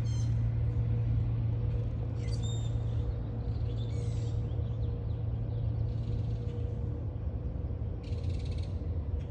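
Steady low rumble with a faint steady hum, and two short bird chirps about two and four seconds in; a brief hiss comes near the end.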